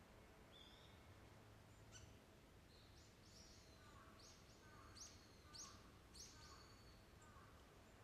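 Small wild birds calling: a run of short, high notes, each starting sharply and then holding level, repeated about half a dozen times from about three seconds in, loudest near the middle, over faint low background noise.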